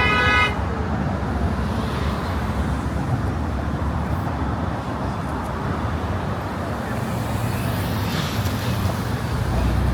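Steady car traffic on the Brooklyn Bridge roadway, with a car horn ending in the first half second and a deep low engine rumble growing louder near the end.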